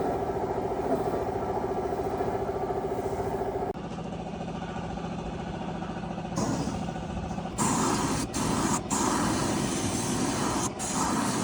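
A machine's motor running steadily, broken by sudden cuts into different stretches, the last one louder and noisier, with short gaps.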